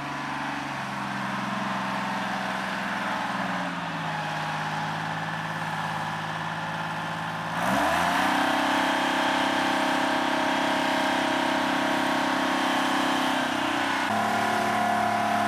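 Engine of a boom-arm digging machine running under load as it moves dirt. It shifts pitch a few times, then revs up sharply and gets louder about halfway through, holding at the higher speed.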